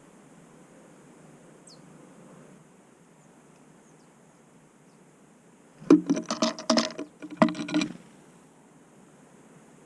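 A flurry of rapid taps and knocks starting about six seconds in and lasting about two seconds: a small bird (great tit or marsh tit) landing and pecking at the feeder close to the microphone.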